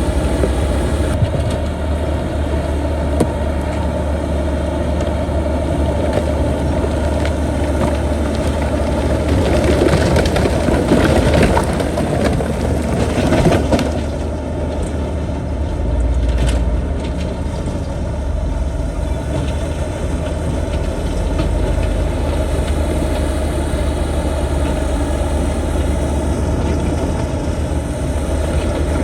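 Heavy diesel earthmoving machinery running steadily. About a third of the way in, a louder stretch of rock crushing and grinding lasts around four seconds.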